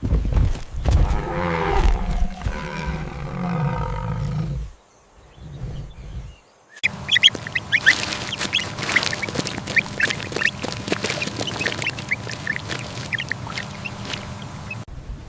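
Farm animal calls. First a drawn-out pitched call with a wavering tone, then, after a short break, a flock of ducks quacking in rapid short calls.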